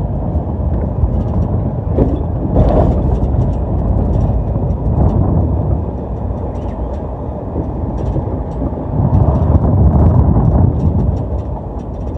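Road and engine noise of a moving vehicle heard from inside, a steady low rumble that swells twice, with scattered small rattles and clicks.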